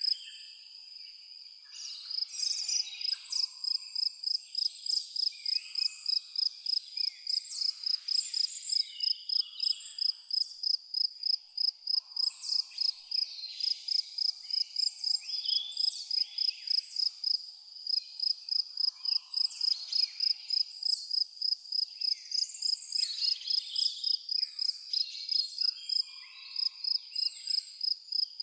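An insect chirping on one high note in rapid, even pulses that never let up, with birds calling and twittering over it.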